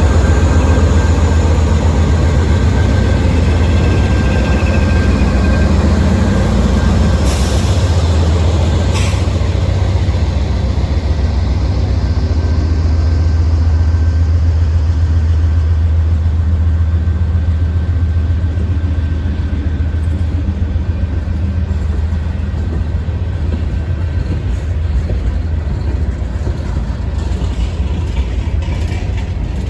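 Train rolling past at trackside: a loud, steady low rumble, with two sharp bangs about seven and nine seconds in. The rumble eases slightly toward the end.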